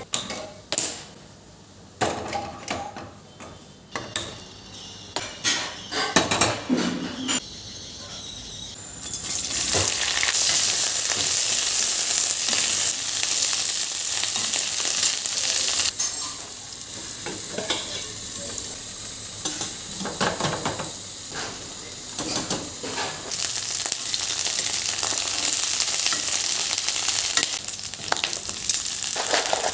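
Utensils clinking and knocking against cookware, then about nine seconds in food starts sizzling in a hot pan and keeps frying steadily, with a few knocks and scrapes from stirring.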